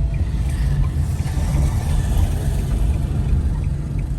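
Car engine and road rumble heard from inside the cabin, steady and low, with faint regular ticking near the end.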